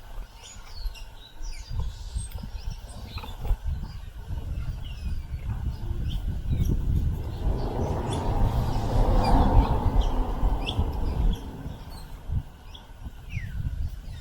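Many small birds chirping at a feeder, with short high calls scattered throughout, over a low rumbling noise that swells for a few seconds in the middle.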